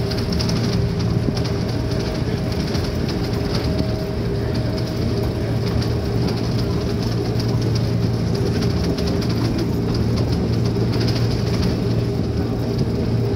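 Schynige Platte Bahn electric rack-railway train climbing, heard from the carriage window: a steady running hum with a few fixed tones over the rumble of wheels on the track.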